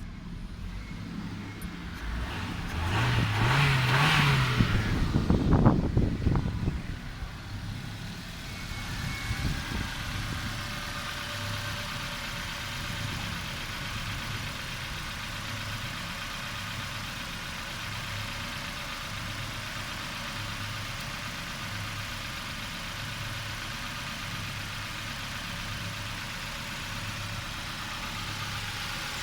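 Nissan QG18DE 1.8-litre four-cylinder petrol engine revving up and back down a few seconds in, then settling to a steady idle.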